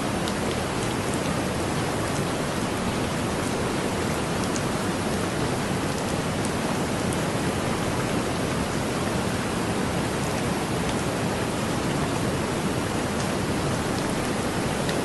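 Heavy rain falling steadily as an even, dense hiss, with occasional sharper ticks of single drops.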